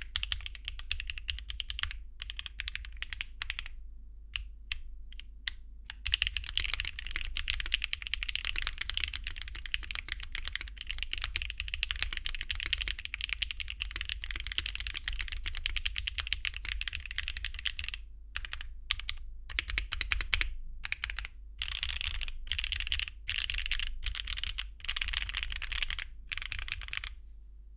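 Typing on a Mode Encore mechanical keyboard with HMX Sunset Gleam linear switches, a copper plate and copper case without foam, and Cherry-profile double-shot ABS keycaps. Bursts of keystrokes with a few separate single presses about four to six seconds in, then a long run of fast continuous typing, then shorter bursts that stop shortly before the end.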